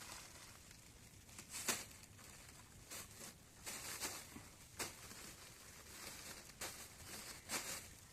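A series of short rustling, scraping sounds, some eight bursts of a second or less at irregular intervals, the sharpest about a second and a half in.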